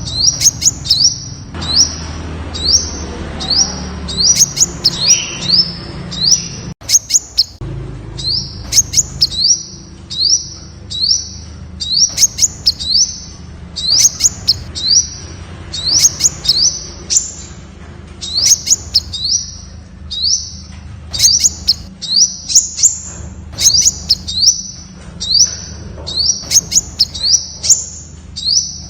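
Temminck's sunbird calling: runs of short, high, sharp notes, several a second, with short pauses between runs, over a faint low hum.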